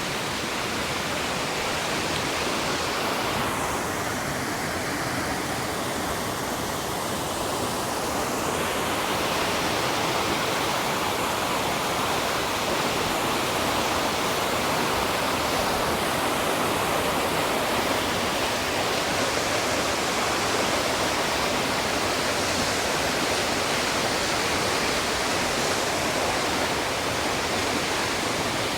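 Fast-flowing river water rushing over rocks: a loud, steady roar with no break.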